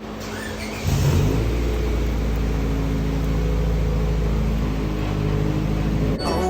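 Acura Integra engine running steadily, rising in level about a second in, then cutting off abruptly just before the end.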